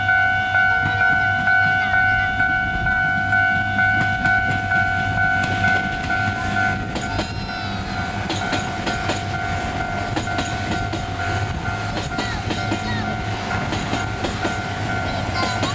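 A level-crossing warning bell rings in a steady pulse of about three strokes a second. Partway through, a passing train takes over: wheels click and knock over the rail joints while the bell carries on more faintly.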